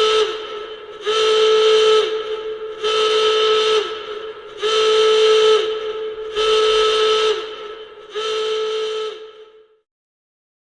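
A whistle sounding six times: loud, roughly one-second blasts at one steady pitch, each dipping in pitch as it ends.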